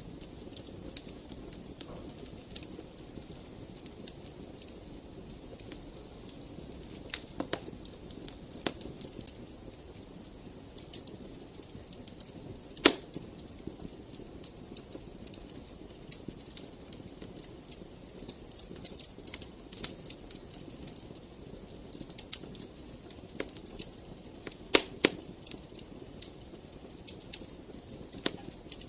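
Fire burning in a fireplace: a steady low rush of flames with frequent sharp crackles and pops, the loudest pop about 13 seconds in and two more close together near the end.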